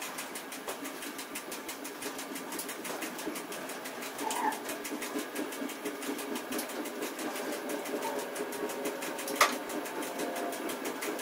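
Train running on the rails, heard inside the driving cab of a Piano Ribassato double-deck driving trailer: a steady rolling rumble with a fast, even rattle from the cab. A faint steady whine comes in about eight seconds in, and a single sharp knock sounds shortly after, the loudest moment.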